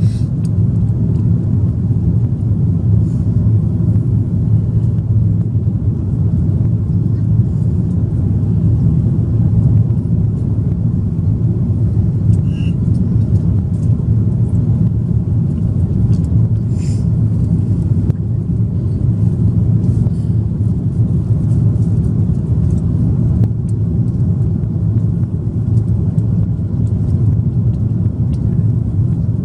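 Steady low rumble of an Airbus A330-300's engines and airflow heard inside the passenger cabin, with a few faint ticks.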